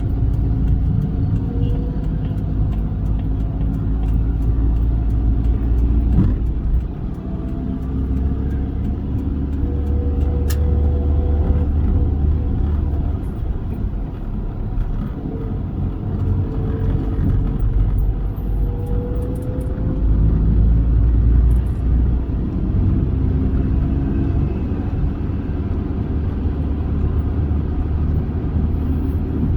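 Toyota Avanza driving, with a steady deep rumble of engine and road noise. The engine pitch rises several times as the car picks up speed.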